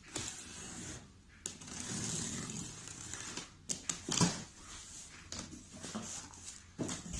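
Cardboard box and packaging being handled and opened: irregular rustling and scraping with a few sharp knocks, the loudest about four seconds in.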